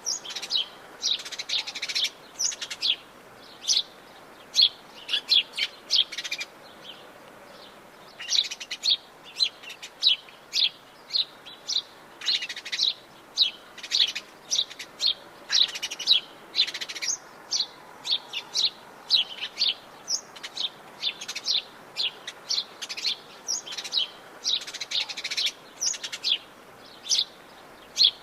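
Atlantic Forest songbirds chirping in quick, short high notes, one call after another, with a brief lull partway through, over a faint steady hiss.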